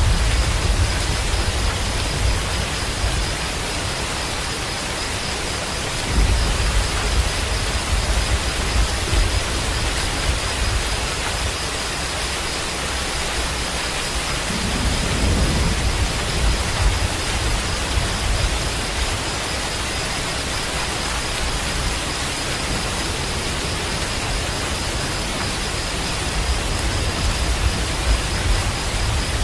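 Steady heavy rain, a dense even hiss, with low rumbles swelling about six seconds in and again around the middle.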